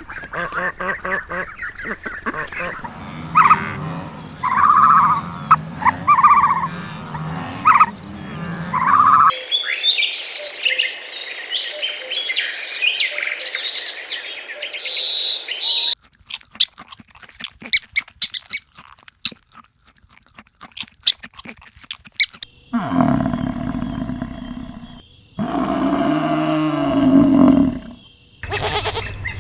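Several different animal calls spliced one after another with abrupt cuts between them, high bird chirping among them.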